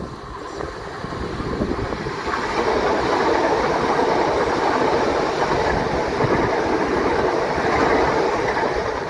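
Southern electric multiple-unit passenger train running past the platform: wheel and traction noise on the rails grows over the first few seconds as it approaches, then holds steady as the carriages go by.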